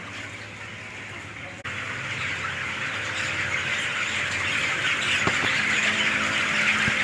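A large flock of broiler chickens in a shed, many birds peeping and squawking at once in a dense chorus over a steady low hum. The chorus jumps louder about a second and a half in.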